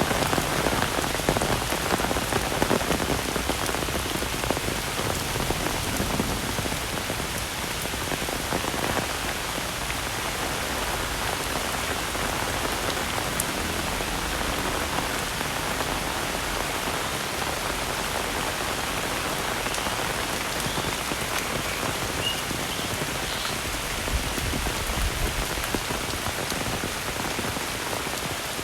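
Heavy rain falling steadily, a dense even wash of drops hitting surfaces, a little louder in the first few seconds.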